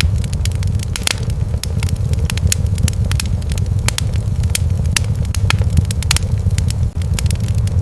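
Wood fire burning in a fireplace: many irregular crackles and sharp pops over a steady low rumble of the flames.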